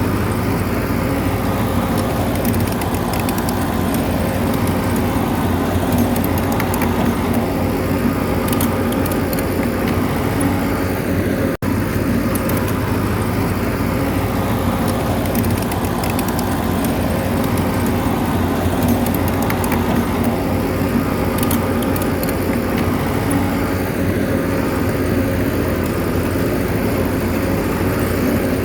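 Bulldozer's diesel engine running steadily, with faint metallic clinks from its tracks and blade. The sound cuts out for an instant a little over 11 seconds in.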